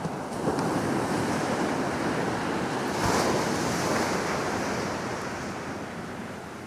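Small ocean waves breaking on a sandy beach: the surf wash swells about half a second in, is loudest around three seconds, then fades away.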